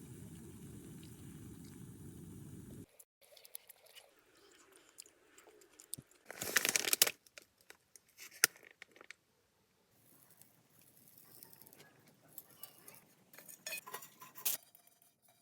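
A steady hiss that cuts off about three seconds in, followed by scattered crinkling, rustling and small clicks of hand handling, with one louder rustle around seven seconds in.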